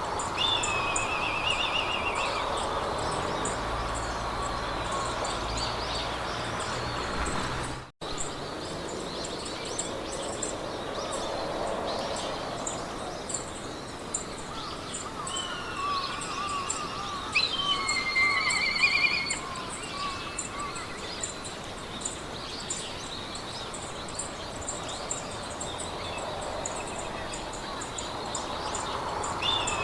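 Meadow ambience: songbirds sing short trilled and warbling phrases over a steady wind hiss, with a high short chirp repeating evenly throughout. The sound drops out for an instant about eight seconds in.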